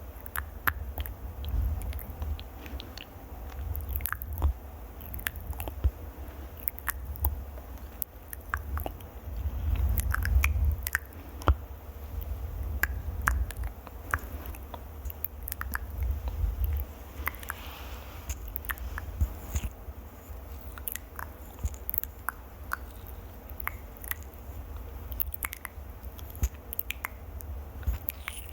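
Close-miked ASMR trigger sounds: rapid, irregular crisp clicks and crackles over a steady low rumble, the kind made by fingers scratching and tapping right on a microphone.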